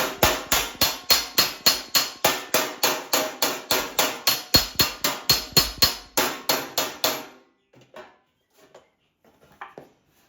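Hammer beating a sheet of 18-gauge steel flat, a fast steady run of ringing metal blows, about four a second, that stops about seven seconds in, followed by a few light knocks. The panel is being flattened to take out a bead rolled in the wrong way.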